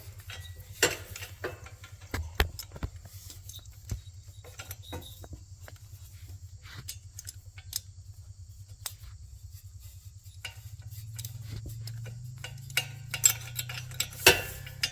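Scattered light metallic clicks and clinks of hand tools and small nuts being worked onto the exhaust studs of a kids' 125cc ATV, coming faster near the end.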